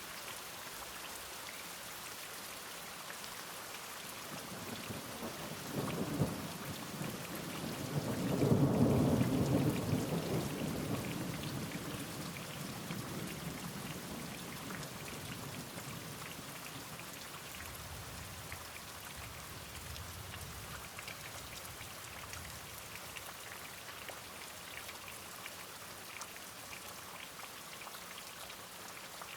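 Steady rain falling, with a roll of thunder that builds about five seconds in, is loudest around nine seconds in and then rumbles away over several seconds. A fainter low rumble follows a little later.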